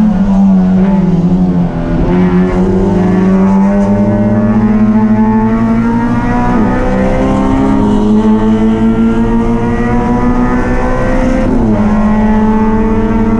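Race car engine running hard at high revs, its pitch climbing slowly, then dipping sharply near the end as the throttle comes off before climbing again.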